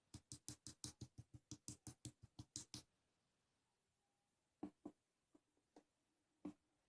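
Faint, quick clicking: about sixteen sharp clicks at roughly six a second for nearly three seconds, then five more spaced-out clicks near the end.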